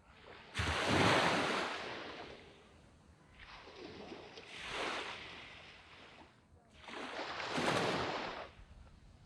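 Small waves breaking and washing up a sand beach: three surges of surf, each swelling and fading over a second or two, the first the loudest.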